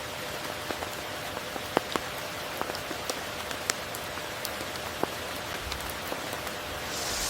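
Steady rain: an even hiss with a few sharp, close drops ticking out of it, the loudest about two seconds in. The hiss swells near the end.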